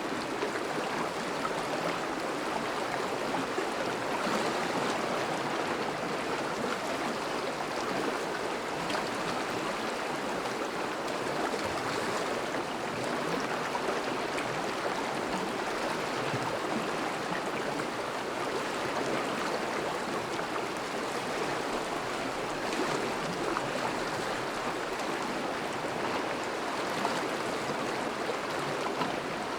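River water flowing and burbling over a thawing riverbed, as a steady rushing that doesn't let up.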